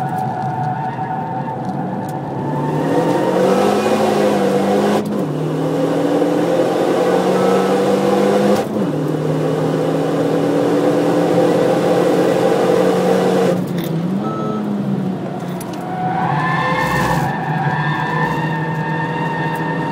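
Renault Mégane RS250's turbocharged 2.0-litre four-cylinder under hard acceleration, heard from inside the cabin: the engine pitch climbs and drops sharply at upshifts about five and nine seconds in. Near fourteen seconds the throttle lifts with a brief rev, and the engine pulls hard again from about sixteen seconds.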